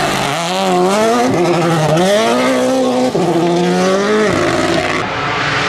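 Rally car engine at full throttle on a tarmac stage. Its pitch climbs, drops at a gearshift, climbs again with a brief cut near the middle, holds, then falls away as the driver lifts off about four seconds in.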